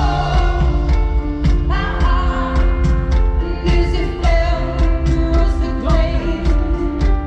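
Live pop song played through a concert sound system: a woman's voice sings over a band with a steady drum beat and a heavy bass line.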